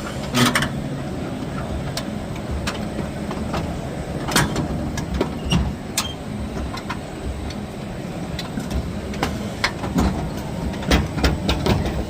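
Car wash conveyor running at its slowest speed with a roller called up onto the chain: a steady low mechanical rumble with repeated sharp clicks and clanks.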